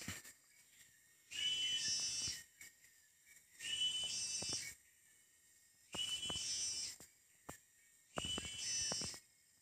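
A forest bird's whistled call, repeated four times at even spacing: each call lasts about a second, with roughly a second of quiet between them.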